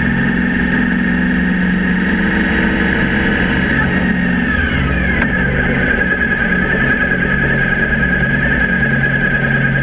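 Suzuki V-Strom 1000's V-twin engine running under way at track speed, with wind rush over the fairing. The engine note falls slightly about four to five seconds in, with a single short click, then holds steady.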